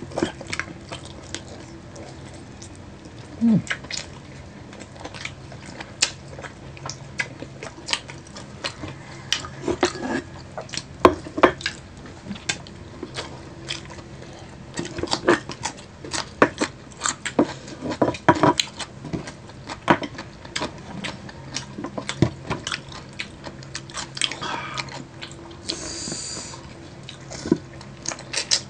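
Close-miked chewing of crispy breaded fried chicken wings and onion rings: irregular crunches and bites all the way through.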